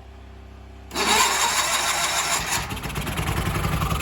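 A small gasoline garden tractor engine is cranked on half choke with a shot of carb cleaner and catches about a second in. It runs roughly on the carb cleaner, turning lower and more pulsing in the second half. It is running only on the carb cleaner because the fuel pump is not yet pulling fuel.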